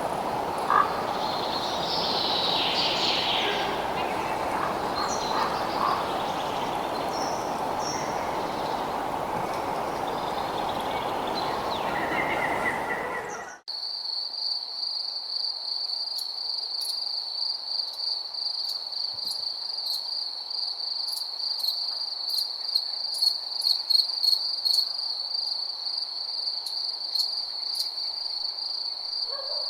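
Night nature ambience: a steady low rushing noise with a few scattered bird chirps cuts off abruptly about halfway through. It gives way to a continuous high-pitched insect trill, like night crickets, with scattered sharp clicks.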